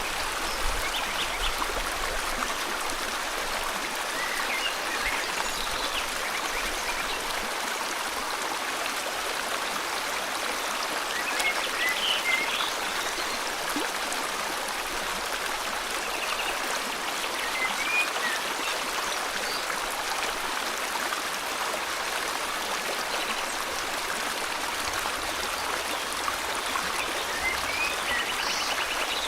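River water flowing in a steady, even rush, with scattered short bird chirps over it.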